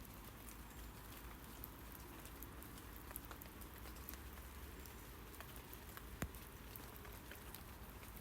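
Rain falling on tree leaves: a faint, steady patter of many irregular drops, with one louder drop about six seconds in.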